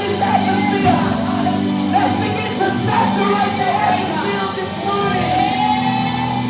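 Gospel worship music: a band playing sustained chords while voices sing over it.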